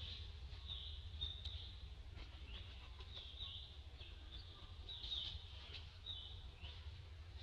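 Bird chirping: short high calls repeated about once a second, over a steady low rumble.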